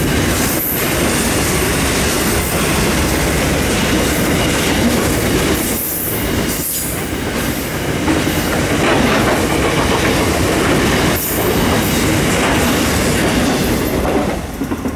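Loaded grain train rolling past at speed, its wagon wheels clattering in a steady rhythm over the rail joints, dropping away near the end.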